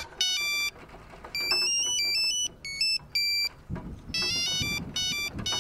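A phone ringing with an electronic melodic ringtone: quick stepping beep-notes played in repeated bursts with short gaps between them. It signals an incoming call.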